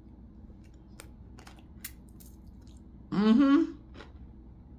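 Faint crunching clicks of pretzel sticks being bitten and chewed, with a short hummed vocal "mm" a little past three seconds in.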